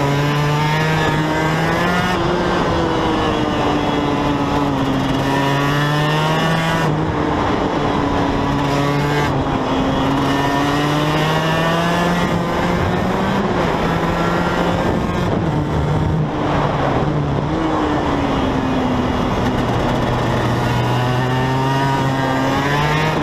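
Sport motorcycle engine recorded on board at speed on a race track: the revs repeatedly climb under acceleration, drop sharply at gear changes and slide down under braking into corners. Steady wind rush runs underneath.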